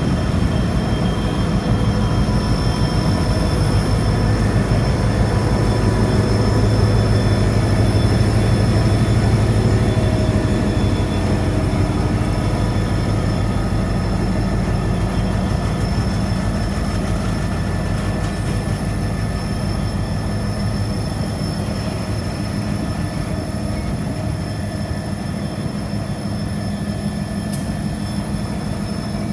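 Freight train rolling slowly past, a steady rumble of wheels on rail with a faint high squeal from the wheels. The rumble is loudest about four to ten seconds in and slowly eases after that.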